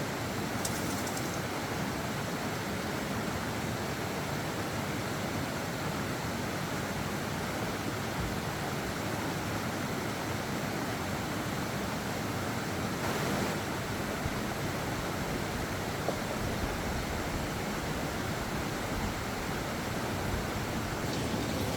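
Steady rushing noise, even throughout, with a slight swell about two-thirds of the way through.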